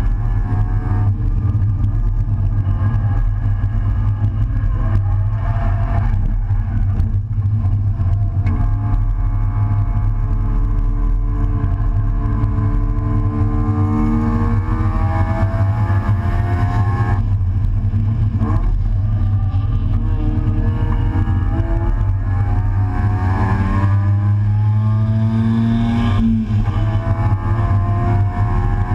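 Race car engine heard from inside the stripped, caged cockpit, pulling through the gears on a lap. Its pitch climbs in long rising sweeps that break off sharply about two-thirds of the way through and again near the end, then climb again, with a heavy low drone beneath.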